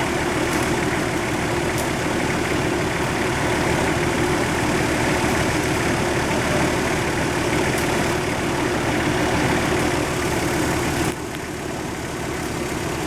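Off-road 4x4's engine running steadily at idle during a winch recovery. About 11 seconds in it turns suddenly quieter and duller.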